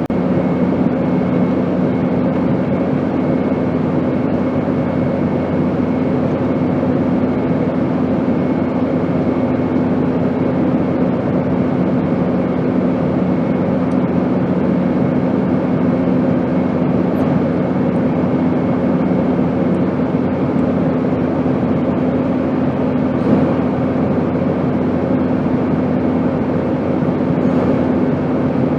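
Airplane noise: a constant, even drone of engine and rushing air, with a few steady hum tones running through it. A few faint ticks sit on top.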